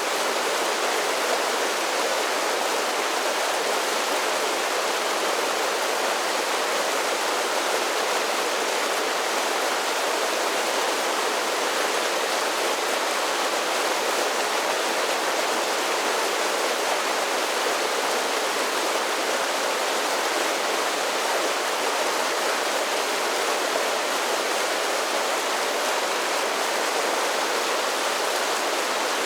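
Mountain creek spilling down a series of small waterfalls: a steady, unbroken rush of water, bright and hissing with little low rumble.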